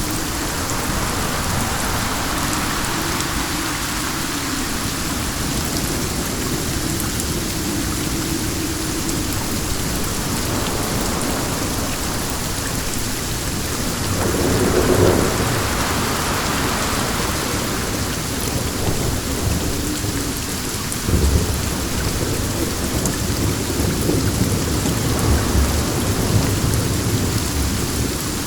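Steady heavy rain hissing on a surface, with a low rumble swelling about halfway through and another setting in abruptly later, which keeps rolling and pulsing.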